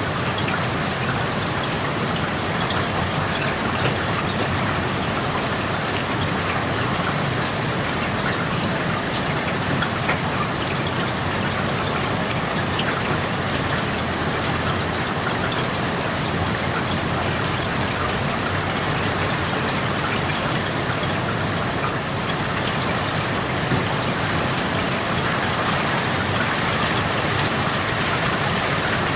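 Steady rain falling, with a continuous patter of drops striking surfaces, heard through an open window.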